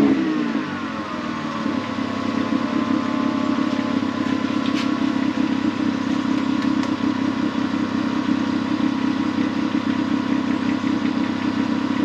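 2008 Kia Sportage engine dropping from a rev back to idle in the first second or two, then idling steadily, with the exhaust leaking at the flex pipe, as the owner finds.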